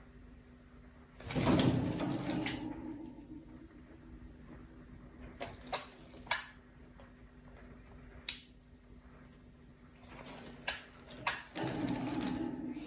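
Alexandrine parrot bathing, beating its wings in the water: two bursts of rapid fluttering splashes, one a little over a second in and one near the end, with a few sharp clicks between.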